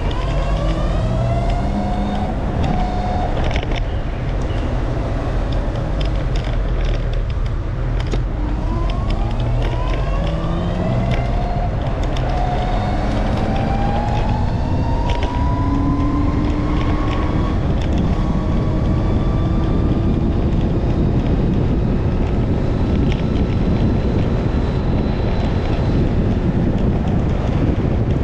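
Heavy wind rumbling on the microphone while riding, with a motor vehicle's engine rising in pitch as it speeds up several times and then holding steady.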